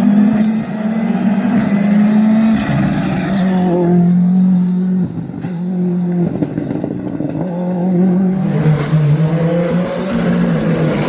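Ford Fiesta R5 rally car's turbocharged four-cylinder engine running hard on a stage. Its pitch climbs and drops back several times as it changes gear. Two stretches of rushing tyre noise come in, one about two and a half seconds in and one near the end.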